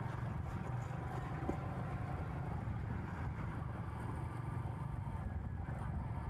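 Royal Enfield Meteor 350's 349 cc single-cylinder engine running at a steady cruise while the motorcycle is ridden, a steady low rumble.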